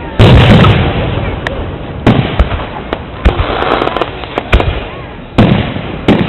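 Aerial fireworks shells bursting overhead: a loud boom just after the start, then about six more booms over the next few seconds, with rumbling echo and crackle between them.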